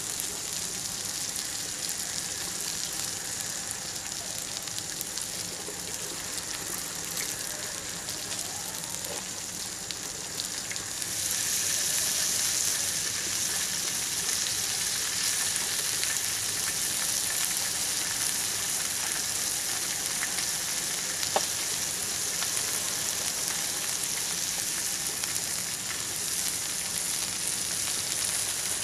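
Skewered chicken gizzards sizzling in hot oil on a flat metal pan, a steady frying hiss. About eleven seconds in, the sizzle turns louder and brighter as red sauce goes onto the meat. There is one sharp click about two-thirds of the way through.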